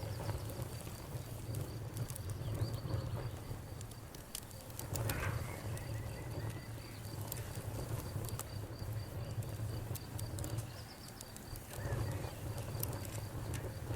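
Campfire crackling with scattered sharp pops over a low steady rumble, with a cricket-like insect chirping in a fast, evenly spaced high trill.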